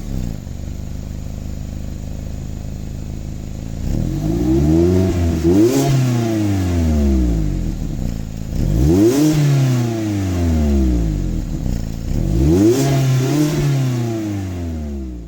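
Stock exhaust of a 2016 Mazda MX-5 Miata's four-cylinder engine idling steadily, then blipped three times: each rev rises quickly and falls back slowly to idle. It cuts off suddenly at the end.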